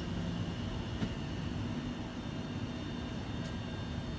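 Train running, a steady low rumble with a faint hum over it.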